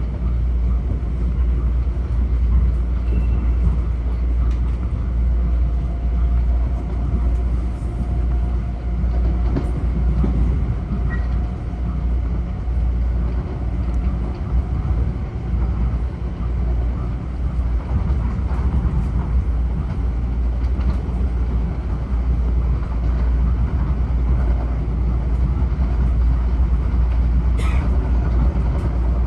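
Interior of a Metro-North M7A electric multiple-unit car running at speed: a steady low rumble of wheels on rail and car body, with a faint whine through the middle.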